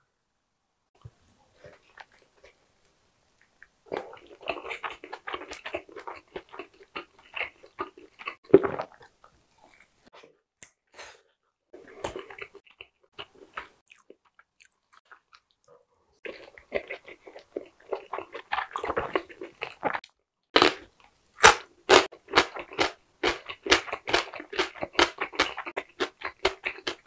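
Close-miked chewing of a large soft-skinned steamed dumpling: wet mouth sounds and smacking in stretches with short pauses. The first few seconds are nearly silent, and toward the end sharp smacking clicks come thick and fast.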